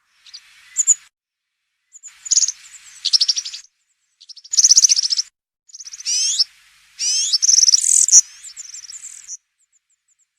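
European serin singing: a high-pitched, fast, jingling song in about six short bursts separated by brief pauses, each made of rapid buzzy trills and quick pitch glides. It stops about a second before the end.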